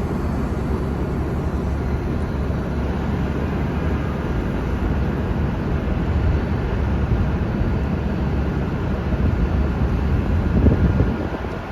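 City bus running with a steady low engine rumble, swelling briefly near the end.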